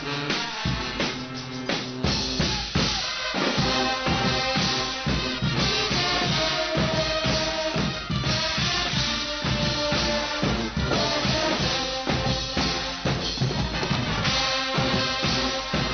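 Guggenmusik band playing: brass instruments holding notes over loud carnival drums beating a fast, steady rhythm.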